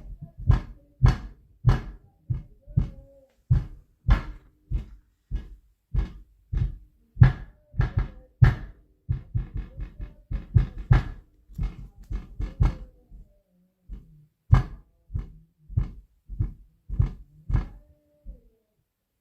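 Repeated heavy thumps of someone stomping on the floor in an adjoining room, about two a second in an uneven rhythm, with a short pause partway through. They stop shortly before the end. Faint held tones sound between the thumps.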